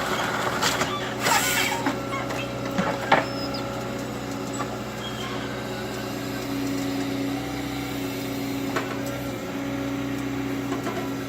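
Volvo ECR145EL excavator's diesel engine running steadily under a harvester head at work, with a few sharp cracks of wood breaking, the loudest about three seconds in.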